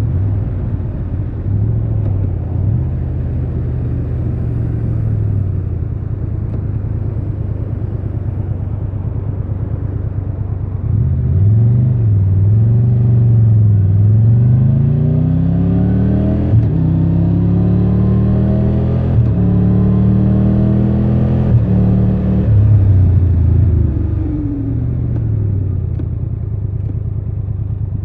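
Triumph Tiger 1200 Rally Pro's inline three-cylinder engine on the move: a steady low engine note at first, then from about eleven seconds in it accelerates through several gears, the pitch climbing and stepping down at each upshift, before easing off with a falling note near the end.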